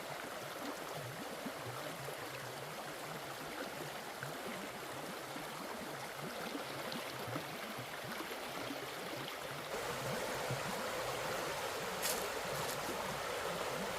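River water flowing steadily. It becomes louder and fuller about ten seconds in, and a couple of brief clicks come soon after.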